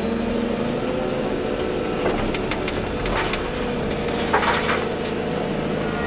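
Volvo EC240B excavator's diesel engine and hydraulics running under load with a steady drone and whine. A few clicks and knocks come about two to three seconds in, then a brief rush of noise a little past four seconds.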